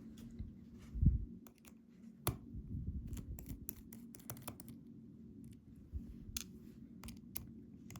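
Scattered sharp metallic clicks and taps of a Ruko 600 lock cylinder and its picking tools being handled as the plug is turned back to the locked position, with a dull thump about a second in.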